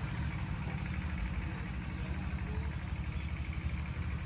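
An engine idling with a steady low rumble, and a few faint high chirps, like small birds, above it.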